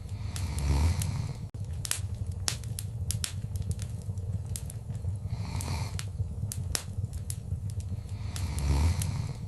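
Wood fire in a fireplace crackling, with many sharp pops and snaps over a steady low rumble. Three times the fire swells briefly into a louder rush.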